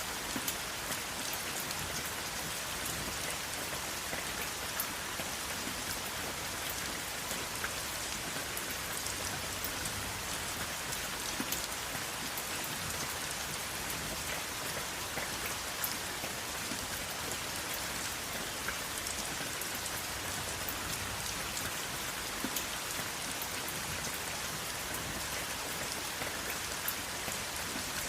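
Steady rain falling, an even hiss with the sharp ticks of separate drops hitting a surface scattered through it.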